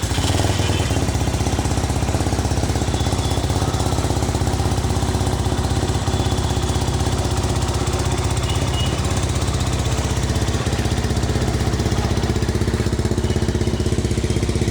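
Benelli 250 cc motorcycle engine idling steadily.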